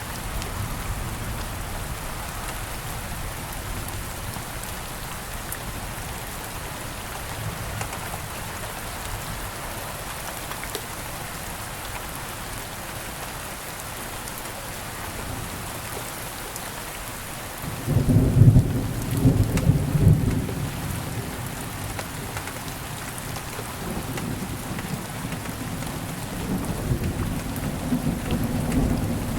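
Steady rain falling. About two-thirds of the way in a loud, low thunder rumble breaks in for a few seconds, and thunder rumbles again near the end.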